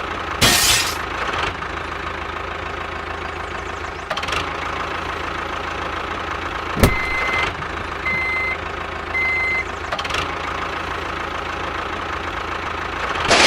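A small motor runs steadily, broken by a few short bursts of noise and a sharp click. Three short high beeps sound in the middle.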